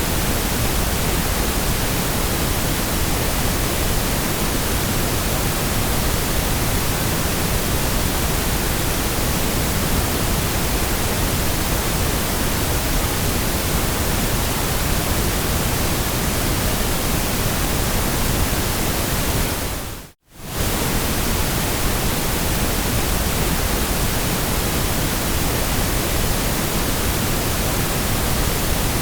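Steady electronic white noise, an even, unchanging hiss. About twenty seconds in it dips out for a fraction of a second and comes straight back, like a loop point in the track.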